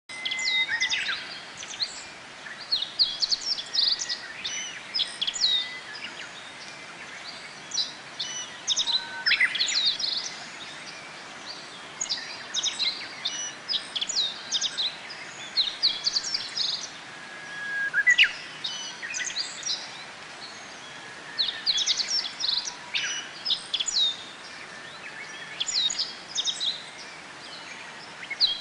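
Japanese white-eye singing: phrases of rapid, high twittering notes, some sweeping down, repeated every few seconds.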